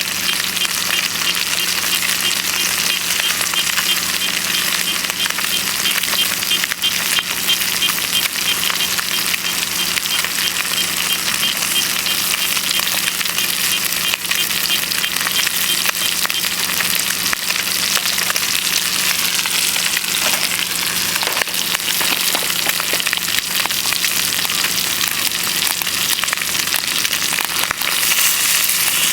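Food sizzling steadily in a frying pan over a wood-fired rocket stove, a dense hiss with fine crackling.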